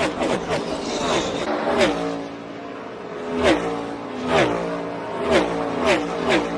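NASCAR Cup Series stock cars' V8 engines going by at racing speed, several in quick succession. Each pass is a rush of engine noise that drops sharply in pitch as the car goes by.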